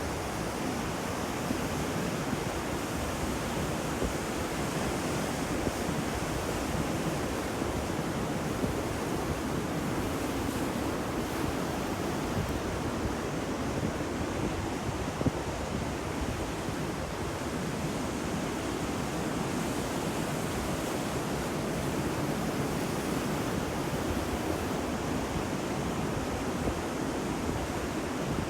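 Sea waves washing on the shore in a steady surf, with some wind.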